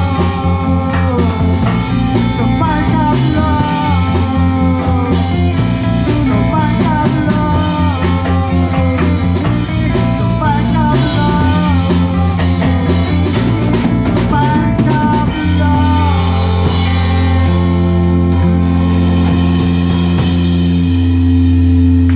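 Live rock band playing: a lead electric guitar runs quick bending lines over bass and drums, then about two thirds of the way in the band switches to long held chords and bass notes as the song ends.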